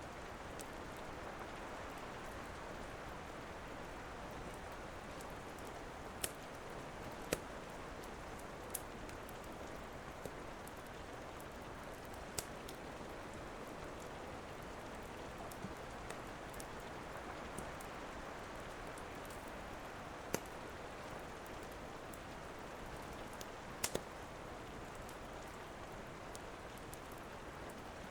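Steady rain falling, with sharp, irregular pops and crackles of a wood fire in a fireplace, about a dozen spread unevenly through it.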